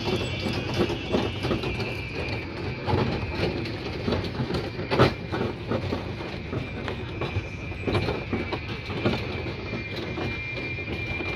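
Small-gauge ride-on tourist train rolling along its track: wheels clicking over rail joints at an uneven rate, with a sharper clack about five seconds in and a thin, steady high whine.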